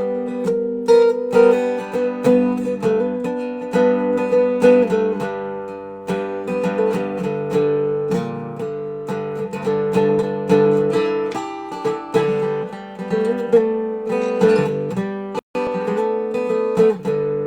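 Dobro resonator guitar being played, a run of plucked notes and ringing sustained tones. The sound cuts out for an instant about fifteen seconds in.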